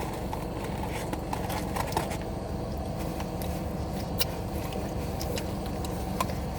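Steady car road and engine noise heard from inside a moving car, with a few faint clicks.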